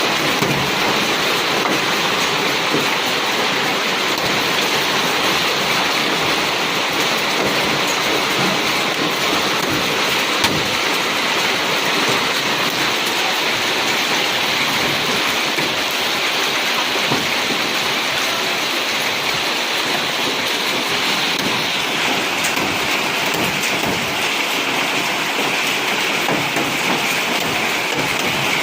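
Heavy rain pouring down in a steady, dense hiss, with scattered small taps of drops striking surfaces.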